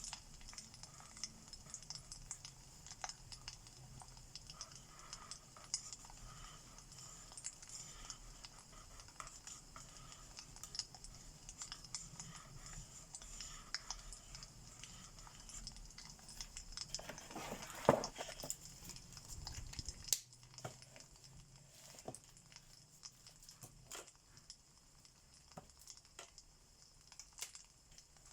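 Wood fire crackling, with small sharp pops over a soft steady hiss. A louder knock comes a little over halfway through, after which the hiss fades and the crackles thin out.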